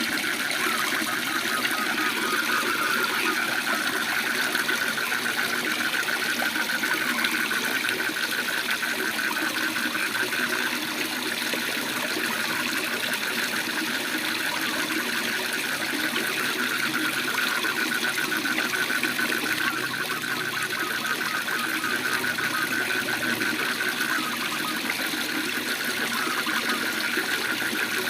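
Waterfall rushing steadily, with frogs calling over it in a fast, continuous pulsing trill.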